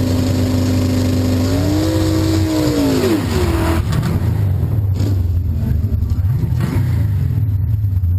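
Drag car's engine held at high revs under a hiss, rising briefly and then falling away about three to four seconds in. After that it drops to a low, choppy idle rumble as the car creeps forward to the starting line.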